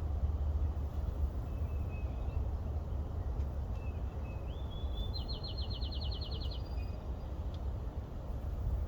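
A songbird sings once about five seconds in: a short rising note, then a fast trill of about a dozen notes, with a few faint chirps before it. Under it runs a steady low rumble.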